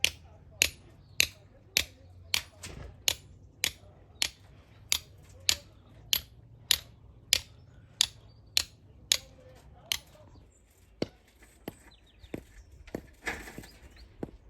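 Regular sharp knocks of a hard tool striking, a little under two a second, thinning to a few scattered knocks near the end, with a short rustle about a second before the end.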